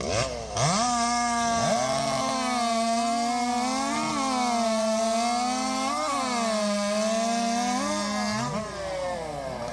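Racing chainsaws revving up and running at full throttle through the timber, their pitch dipping briefly under load a few times before they wind down near the end.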